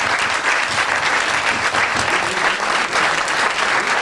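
An audience clapping and applauding steadily.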